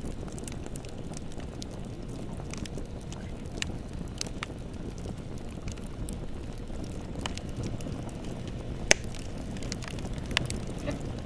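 Bonfire burning with a steady low rumble and scattered sharp crackles and pops of burning wood, with one loud pop about nine seconds in.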